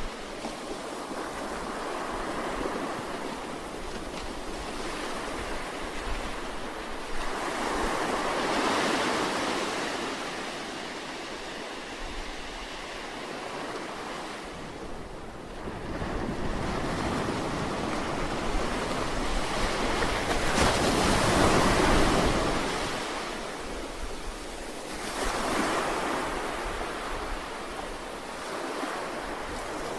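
Sea waves washing ashore in a steady surf, swelling and falling back every several seconds, with the biggest surge a little past two-thirds of the way through.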